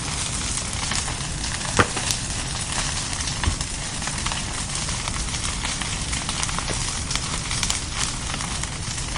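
Wood bonfire crackling: a steady hiss with frequent small pops, a louder pop about two seconds in and another near three and a half seconds.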